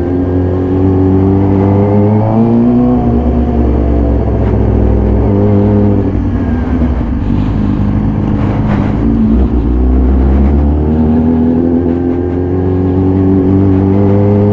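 2014 Yamaha YZF-R6's inline-four through a full SC-Project exhaust, ridden under acceleration. The engine note rises, drops about three seconds in, wavers through the middle, then rises steadily again near the end.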